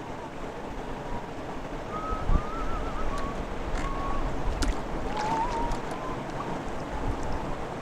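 Canoe being paddled with a double-bladed kayak-style paddle: steady swish and splash of the blades in the water, with a few sharp drips and knocks and wind on the microphone.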